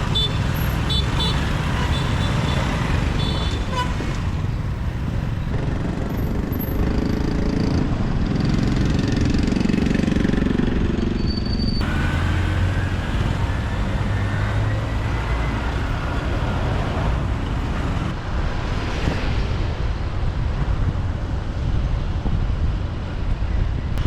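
City street traffic heard from a moving motorbike: a steady rumble of engines and road noise, with a few short horn toots in the first few seconds.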